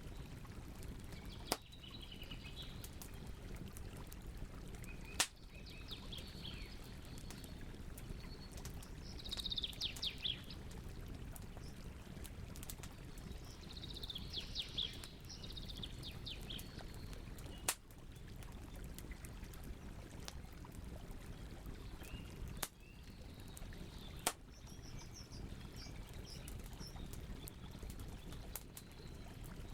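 Campfire crackling, with a few sharp pops over a low steady rumble of burning wood. Birds chirp in short runs of twittering calls several times, loudest about ten and fifteen seconds in.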